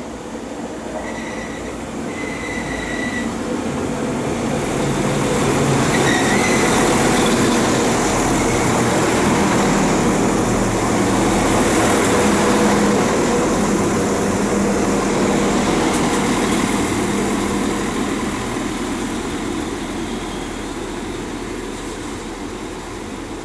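Diesel multiple unit passing close by on the line: engine and wheel noise grow louder, stay at their loudest through the middle, then fade as it moves away. A few short high-pitched squeals come from the wheels in the first few seconds.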